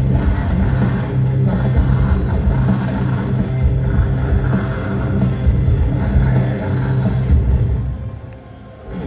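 Metalcore band playing live, with heavy distorted guitars and a drum kit. The music drops away sharply about eight seconds in.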